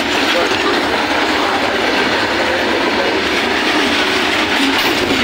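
Goods train's covered wagons rolling past at close range: a loud, steady rumble of steel wheels on the rails.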